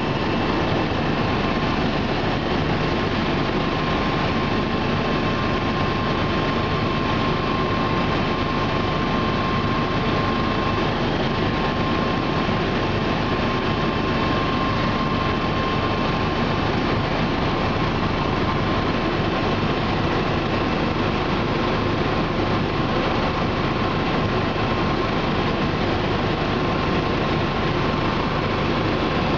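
Bell 429 twin-turbine helicopter in flight, heard from inside the cabin: a steady, unbroken drone of rotor and turbines with a thin steady whine running through it.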